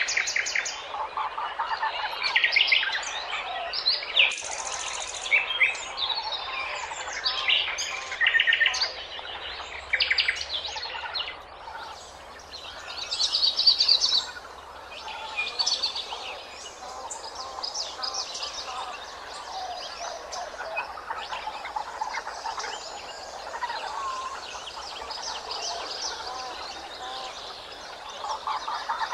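Small birds chirping and singing: many short, high calls overlapping, busiest in the first half.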